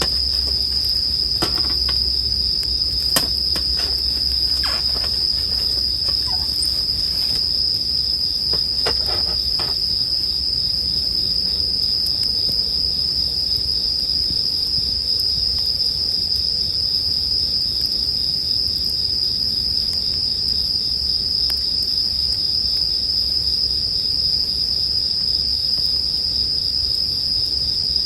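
Japanese bell crickets (suzumushi) chirping in a dense, unbroken high-pitched chorus. A campfire gives a few sharp crackles in roughly the first ten seconds.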